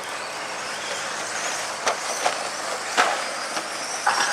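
Radio-controlled stadium trucks racing around the track: a steady hiss of motors and tyres with a faint high whine, and a few sharp knocks about two, three and four seconds in.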